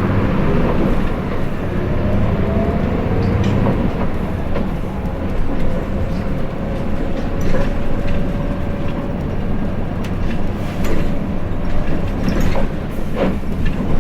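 Hino Blue Ribbon City city bus running, heard from inside the cabin: a low diesel engine rumble with a drivetrain whine that rises over the first few seconds and then holds steady. Several knocks and rattles from the body come later on.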